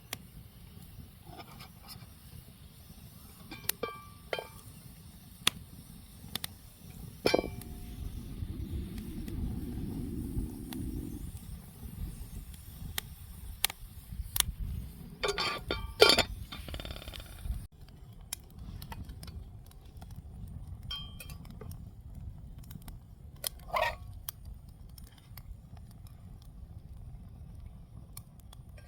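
Scattered clinks and taps of metal or glass camping cookware and utensils, a few ringing briefly, with the loudest cluster about 15 to 16 seconds in. A steady low rumble lies underneath.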